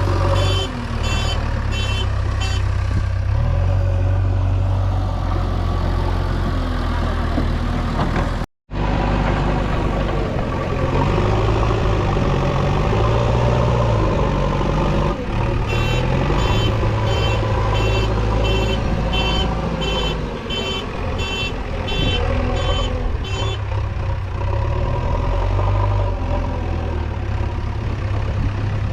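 JCB 3DX backhoe loader's diesel engine running steadily under work, with a reversing alarm beeping about twice a second in two spells, at the start and again in the second half. The sound cuts out for an instant about eight seconds in.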